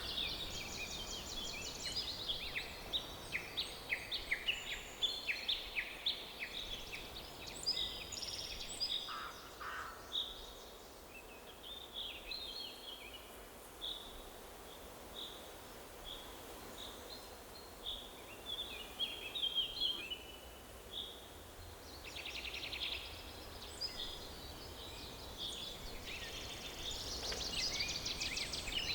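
Forest birdsong: several songbirds chirping and trilling, with many short high calls crowding together in the first several seconds, thinning out in the middle, and picking up again near the end with rapid trills, over a faint steady background hiss.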